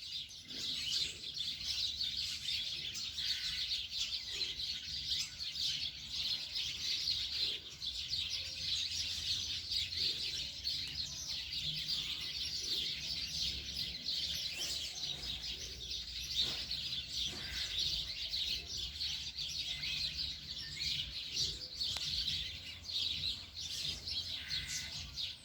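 A flock of birds chirping and chattering densely without a break, calling to be fed.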